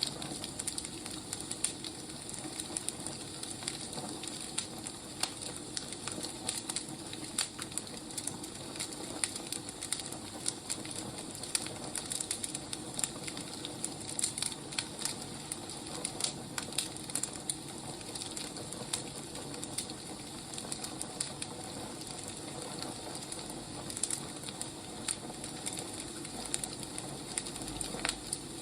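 Wood fire crackling steadily, with frequent irregular sharp pops over a constant low hiss.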